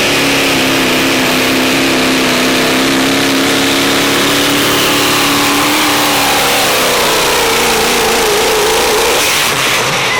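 Diesel pulling truck's engine held at full throttle under heavy load, a loud, steady high-revving note for about six seconds. The pitch then falls and wavers as the engine is dragged down, easing off near the end.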